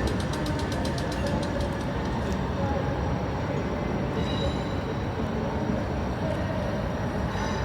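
Class 455 electric multiple unit running along the line, heard as steady rumbling rail noise, with a fast run of regular ticks in the first two seconds and a faint high whine from about halfway through.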